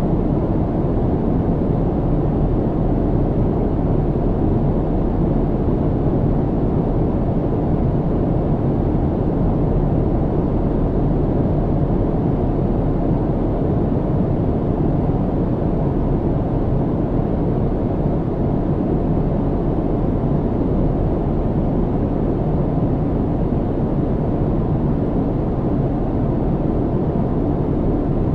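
Steady airplane cabin noise in flight: a constant deep roar of engines and airflow, heaviest in the low end, with no change.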